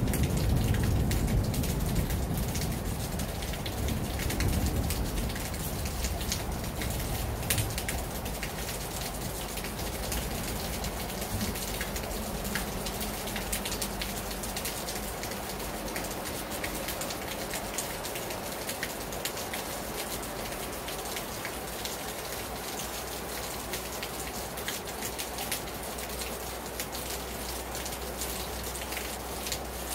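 Heavy rain falling on a terrace: a steady hiss with a dense patter of individual drops striking the surface. A low rumble of thunder dies away over the first seven seconds or so.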